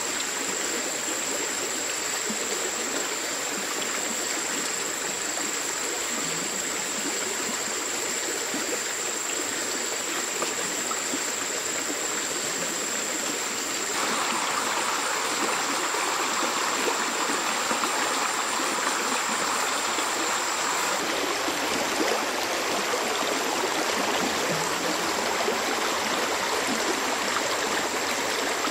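Running water of a stream, a steady rushing with a constant thin high whine above it. About halfway through the rushing turns fuller and louder for several seconds, then settles back.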